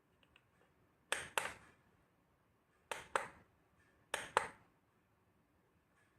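Three pairs of sharp clicks or taps, about a second and a half apart, each pair a quick double click.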